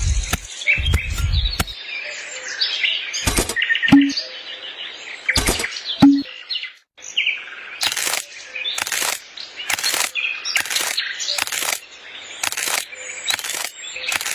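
Small birds chirping, with a couple of low thumps near the start and, from about halfway, sharp clicks about once a second.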